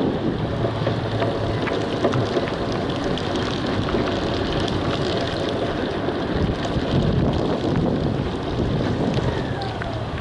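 Wind buffeting the microphone in a steady, rumbling rush that runs on without a break.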